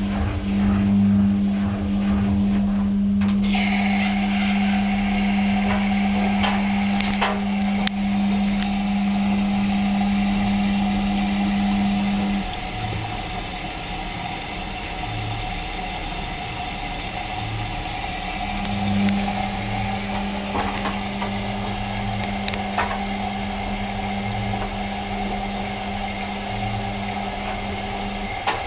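Washing machine running: a steady motor hum that stops about twelve seconds in and starts again some six seconds later, the stop-and-start of a drum turning in cycles.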